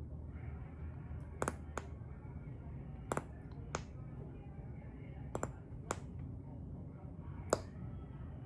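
Sharp, short pops and clicks of small plastic toy pieces, about seven of them at irregular intervals.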